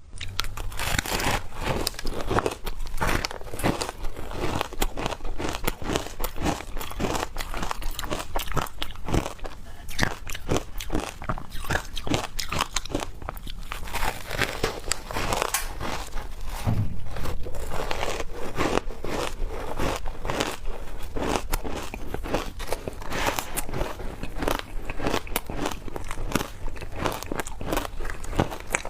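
A person biting and chewing frozen matcha shaved ice dusted with milk powder: a continuous stream of sharp crunches and cracks as the ice breaks between the teeth.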